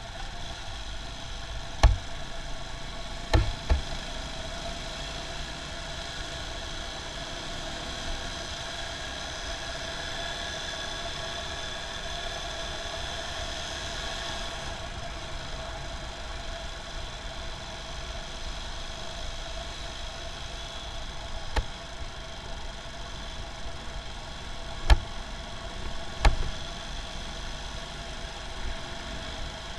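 Motorcycle riding along: a steady engine hum under road and wind noise, broken by several sharp knocks, two close together early on and three more later.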